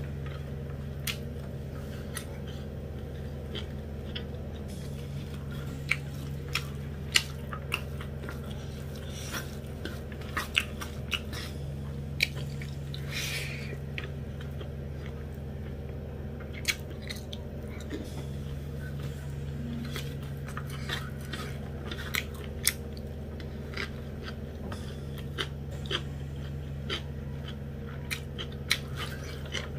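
Close-miked chewing and mouth sounds of someone eating rice and dried buff meat curry by hand, with scattered irregular sharp clicks and smacks, over a steady low hum.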